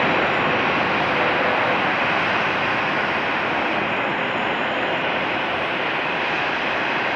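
Jet engines of a departing Boeing 787-9 airliner at takeoff power: a steady, broad rush that slowly fades as the aircraft climbs away.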